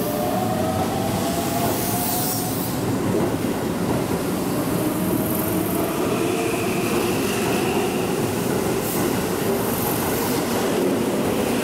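Keihan 9000-series electric train running in along the platform with a steady rumble of wheels on rail. Squealing tones from wheels and brakes come and go, gliding in the first couple of seconds and again higher-pitched about six seconds in.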